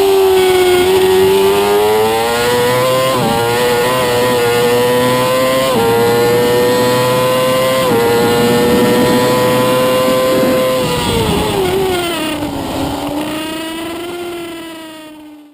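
Racing superbike engine heard onboard, accelerating hard with quick gear changes about three, six and eight seconds in, then the revs fall away from about eleven seconds as the bike slows. The sound fades out just before the end.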